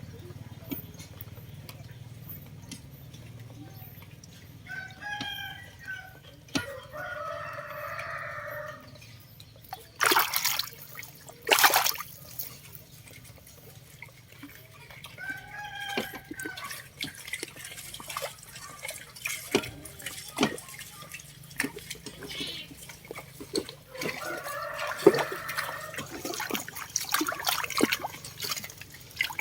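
A rooster crowing several times over water trickling and splashing as a clogged drain is cleared. There are two loud splashes about ten seconds in.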